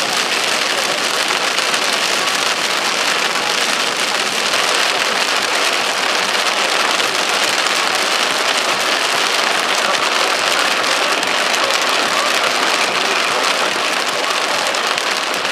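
Heavy rain falling on a moving car, a loud steady hiss, mixed with the swish of tyres on the flooded road.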